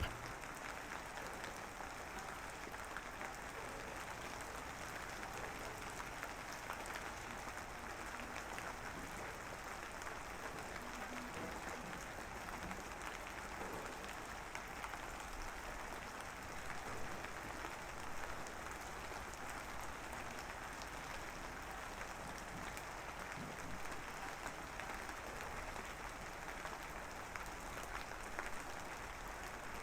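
Steady rain, an even hiss of falling rain that does not change.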